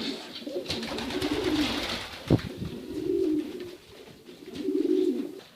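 Pigeons cooing: three low warbling coos, roughly every one and a half to two seconds, with a sharp click a little over two seconds in.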